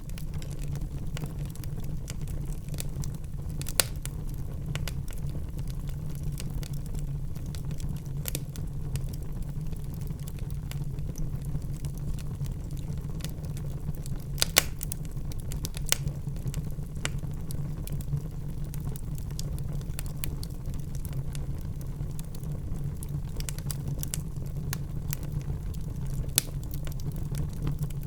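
Wood fire burning in a fireplace: a steady low rumble of the flames with scattered sharp crackles and pops, the loudest about a quarter and about halfway through, and again near the end.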